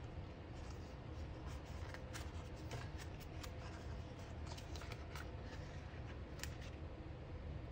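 Quiet handling of paper and sticker sheets: small scattered rustles and light clicks as tiny paw-print stickers are peeled off and pressed onto a planner page, over a low steady hum.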